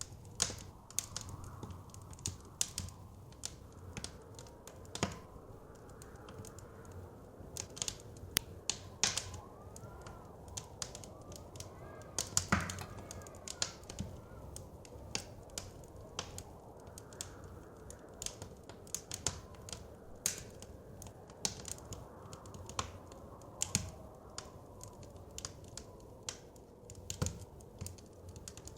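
Wood fire crackling, with irregular sharp pops and snaps, a louder pop about halfway through, over a low steady rush of wind.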